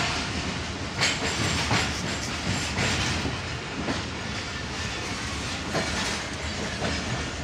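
Passenger train carriages rolling slowly out of a station: a steady rumble of wheels on rail with a few irregular clacks over the rail joints, heard from an open carriage window.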